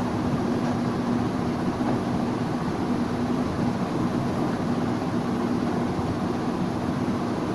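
A steady machine-like hum with a constant low tone under an even hiss.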